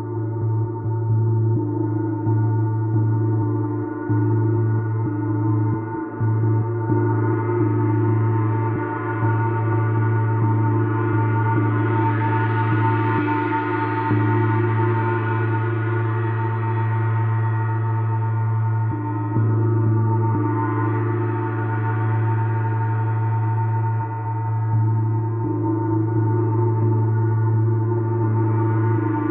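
Gong bath: a large gong kept sounding in a continuous wash of many overlapping ringing tones over a strong deep hum. It grows brighter and fuller twice, about twelve seconds in and again around twenty seconds.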